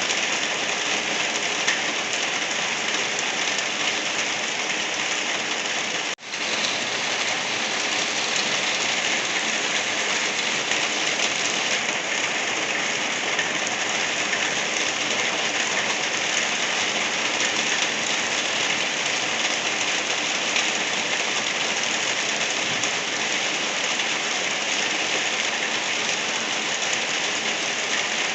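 Steady rain falling, an even hiss of drops, with a brief gap about six seconds in.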